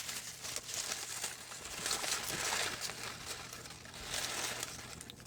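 Paper slips rustling and crinkling as a hand rummages through them to draw one out, with many small crackles, loudest about halfway through.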